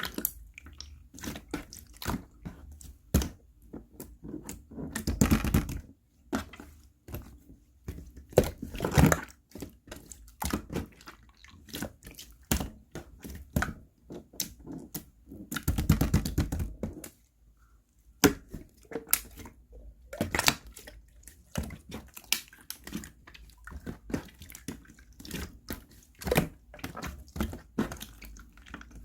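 Light-green slime being squished and poked by hand, giving a stream of wet clicks and pops. Two longer runs of dense crackling squelches come about five seconds in and again around sixteen seconds.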